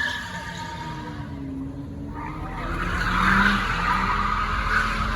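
Car tires squealing over a running engine whose pitch rises and falls, the screech loudest a little past the middle.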